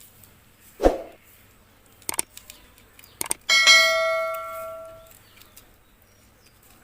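A dull knock, two sharp clicks, then a piece of metal struck once and ringing for about a second and a half, a clear bell-like tone that fades away.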